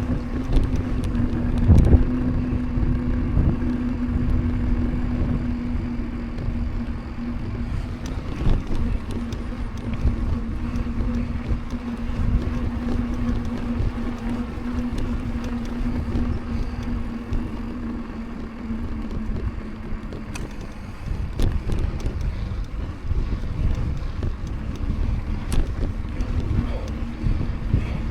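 Mountain bike rolling along a paved road: a steady low tyre hum over rumble and wind on the microphone, with scattered knocks from bumps. The hum fades twice and then returns.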